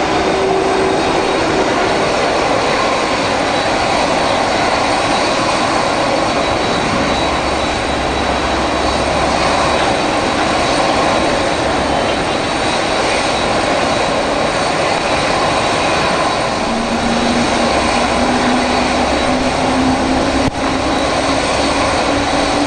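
Boeing 767-300ER jet engines running: a loud steady roar with a thin high whine. A lower tone comes in about 17 seconds in and rises slowly in pitch.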